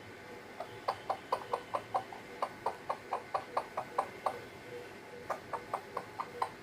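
A parrot making rapid clicking sounds, about four to five clicks a second. A run of about three and a half seconds is followed by a pause, then a shorter run near the end.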